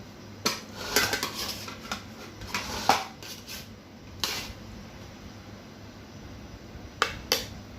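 Utensils clinking and scraping against a serving plate as food is arranged on it: a handful of sharp knocks, some in quick pairs, with brief scraping between them.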